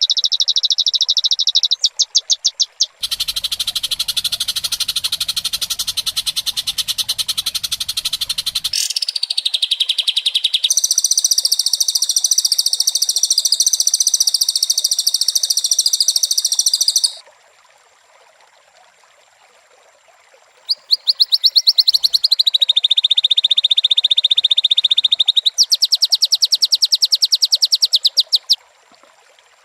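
High-pitched, rapidly pulsing trilling calls in several long bursts lasting a few seconds each, with short pauses between them. There is a low rumble under the second burst.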